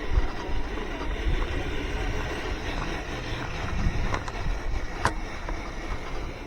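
Wind buffeting the microphone in gusty low rumbles, with a sharp click about five seconds in.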